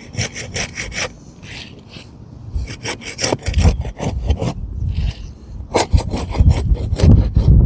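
Asphalt shingle seal strips being cut loose: a quick series of short scraping, rasping strokes as a flat tool is worked under the shingle along the tar line. Low thumps join in from about halfway through and are loudest near the end.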